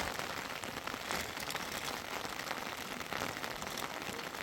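Heavy rain falling steadily, with many separate drops ticking close by.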